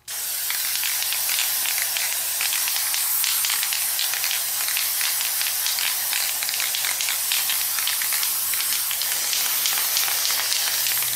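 Paint being sprayed onto the toy car's die-cast body in one long, steady hiss.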